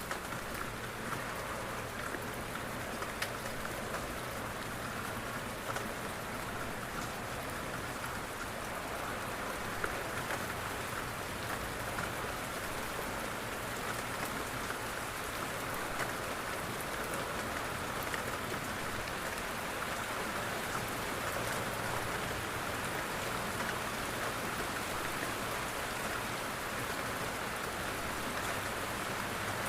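Steady rain with individual drops ticking against a window pane.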